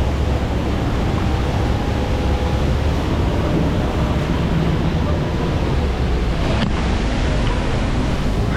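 Steady rushing roar of the Rhine Falls' water, with a boat motor running low underneath.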